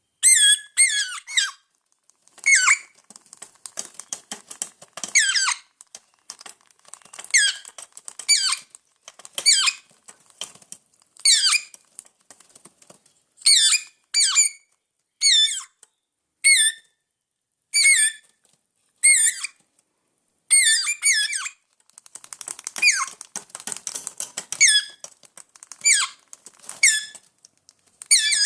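Parrots giving repeated high-pitched squeaky calls, one every second or two, the calls of hungry birds. Between some calls there are stretches of fast, small clicks.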